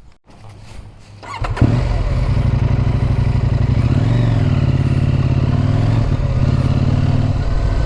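Motorcycle engine comes in suddenly about a second and a half in, then runs steadily as the bike rides on, its revs rising and falling briefly around the middle.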